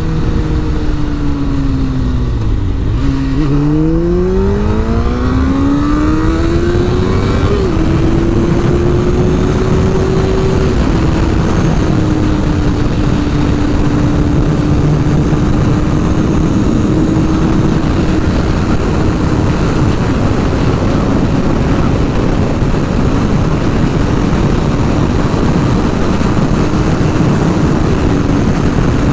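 Sport bike engine under way: its note drops for the first few seconds, then climbs steadily. It dips slightly around eight and eleven seconds in as gears change, then holds a steady cruising pitch. Heavy rushing noise, likely wind on the microphone, runs underneath.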